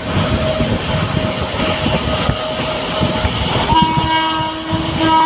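Moving passenger train heard from inside a coach: steady running noise with the rumble and clatter of the wheels on the rails. About three and a half seconds in, a steady horn starts and holds.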